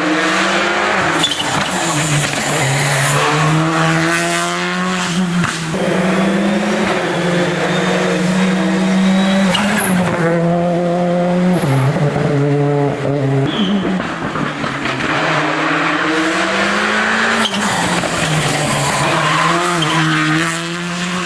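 Rally car engine accelerating along a special stage, its pitch climbing and then dropping back at each of several gear changes.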